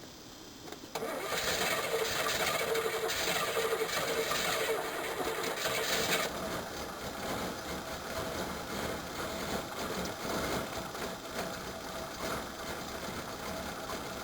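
1985 Chevrolet Caprice's 305 cubic-inch small-block V8 starting from cold about a second in, running loud for about five seconds, then dropping to a lower idle that is close to stalling. Its choke is malfunctioning, so the cold engine floods itself.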